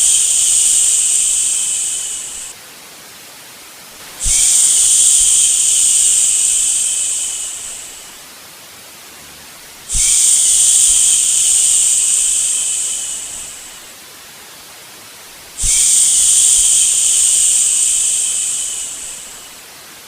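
A person shushing, long drawn-out 'shhh' sounds repeated about every six seconds. Each starts sharply and fades away over about three seconds, above a steady, quieter white-noise hiss, a rhythm meant to lull a baby to sleep.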